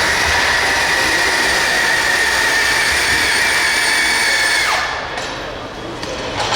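High-pitched whine of an RC pulling tractor's motor under load during a pull. It holds nearly steady, sagging slightly in pitch, then winds down quickly about five seconds in, dropping in pitch and loudness, before picking up again near the end.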